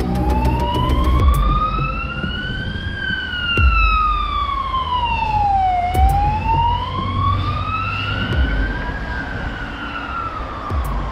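A wailing siren, its pitch rising slowly for about three seconds and then falling for about three, fading away near the end. A low rumble with a few short knocks runs underneath.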